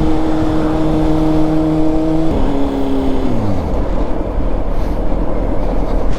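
2006 Honda CBR600RR inline-four with a Yoshimura exhaust, holding a steady note at constant revs. About two seconds in the pitch drops suddenly, then falls away over the next second as the revs come down. After that only wind rush is left.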